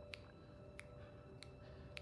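Clock ticking faintly, about three ticks every two seconds, over a faint steady held tone.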